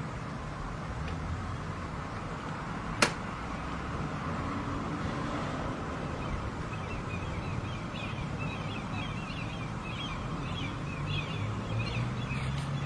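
Birds chirping in quick, repeated short notes from about halfway through, over a steady low rumble. There is a single sharp click about three seconds in.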